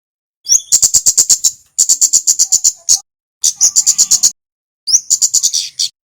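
Kemade (kemlade) bird, a male in full song: four bursts of rapid, high, sharp chirps, about eight a second, each burst about a second long, several opening with a short rising note.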